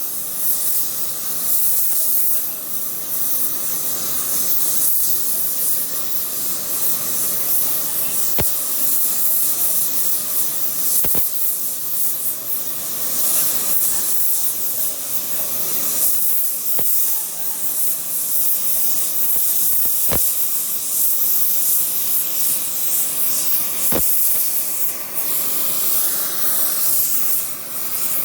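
Electric welding arc hissing steadily, with a few sharp clicks spread through it.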